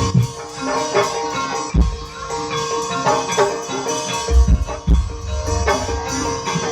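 Live gamelan-style accompaniment for an ebeg horse dance: struck metal percussion and drums play a repeating pattern over a steady held tone, with heavy low strokes about two seconds and four and a half seconds in.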